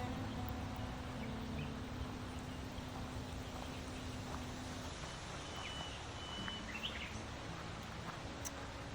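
Outdoor ambience: a steady hiss with a few short bird chirps about six to seven seconds in, over faint held notes of background music.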